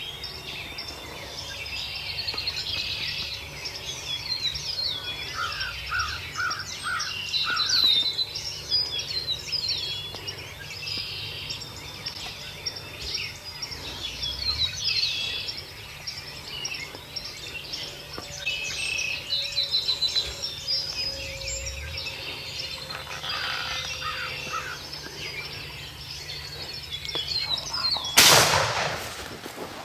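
Many songbirds singing and chirping together, with a short series of lower repeated calls twice. Near the end, a single loud shotgun blast rings out as the turkey is shot at close range.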